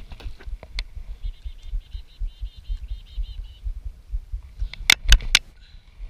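A bird calling a rapid run of short, evenly repeated chirps for about two and a half seconds, over a low rumble. About five seconds in, three sharp clicks or knocks, the loudest sounds here.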